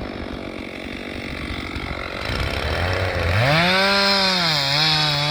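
Two-stroke chainsaw running at a low, uneven idle, then revving up to full throttle about three seconds in to buck a log. Its pitch dips briefly as the chain loads up in the cut.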